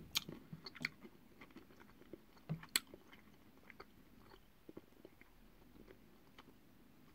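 Faint mouth-close chewing of a soft, sugar-coated sour gummy sweet: small wet clicks and squelches, busiest in the first three seconds and thinning out after.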